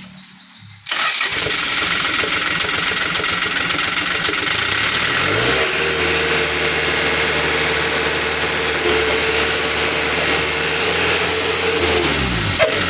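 Toyota Dyna 130HT truck engine revved through a 'wolf-sound' whistle exhaust. The exhaust noise comes in suddenly about a second in. From about five seconds in, a steady howling whistle tone rises out of it and holds, then slides down and fades as the revs drop near the end.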